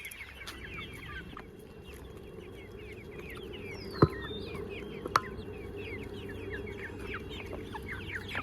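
A flock of desi chickens calling: many short, high, falling calls overlap without a break. Two sharp knocks sound about four and five seconds in.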